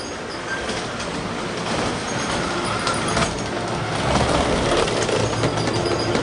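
G-scale model train running along the track, its wheels clicking over the rail joints, growing louder about four seconds in.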